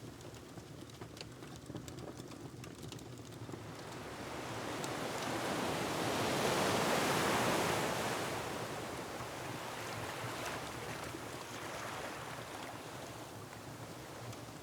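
An ocean wave surging in, swelling to a peak about halfway through and washing back out, over a steady surf bed. Light crackles from a wood fire tick through it, clearest before and after the wave.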